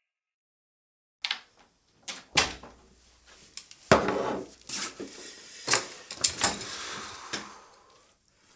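Silence for about a second, then a series of sharp knocks and clatters, with a stretch of hissing, rustling noise in the middle, like a door and objects being handled in a small room.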